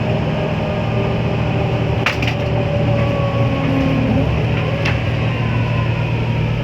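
Scania L94UA bus's diesel engine running steadily, with a faint whine drifting in pitch. Sharp rattles sound about two seconds in and again near five seconds.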